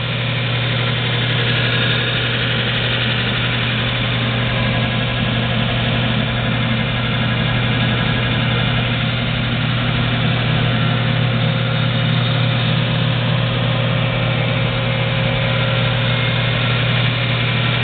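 Wilton 4200A 6-inch by 48-inch belt and 12-inch disc sander combo, a 115-volt model, running steadily at speed just after start-up: a constant low motor hum with an even whir above it.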